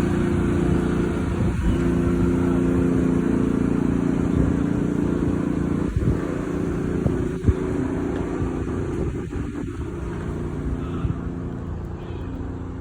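A steady engine-like drone running without a break, with a few short knocks around the middle, growing somewhat quieter near the end.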